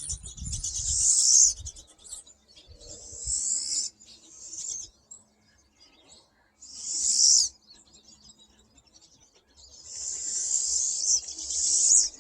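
A flock of pine siskins calling: four loud bursts of buzzy, high calls, each one to two seconds long, with fainter chatter between them. A low rumble sounds near the start.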